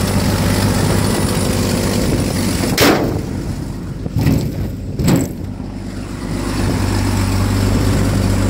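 1974 GMC C1500's worn 250 straight six idling steadily, cold-started without a choke. About three seconds in, three loud, sharp bangs come within about two seconds.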